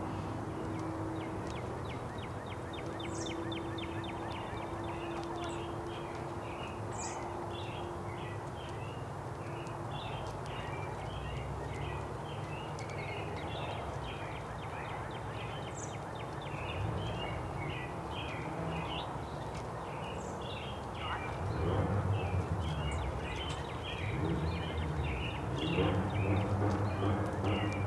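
A group of small songbirds chirping in quick, overlapping short notes, with a low background rumble that grows louder near the end.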